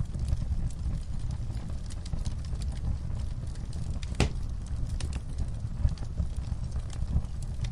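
Wood fire in a fireplace crackling: a steady low rumble of the flames under scattered small pops and snaps, with one sharper pop about four seconds in.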